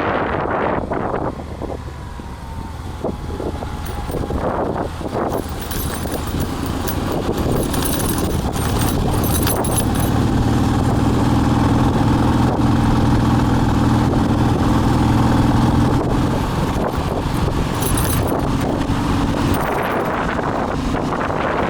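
Motorcycle engine running on the move, with wind on the microphone. The engine note grows louder from about a third of the way in, holds, then eases off near the end.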